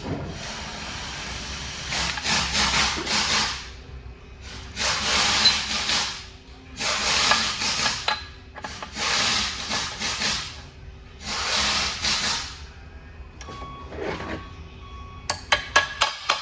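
Power tool running in repeated bursts, about five pulls of one to two seconds each, as when fasteners on a truck transmission case are run down one after another. A quick series of sharp metallic clicks follows near the end.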